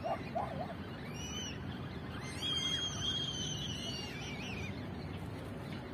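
A bird calling over a steady low outdoor rumble: a short chirp about a second in, then a longer high, slightly wavering call lasting about two seconds.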